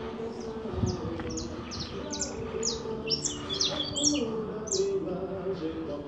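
Small birds chirping: a quick run of short, high, falling chirps, thickest around the middle.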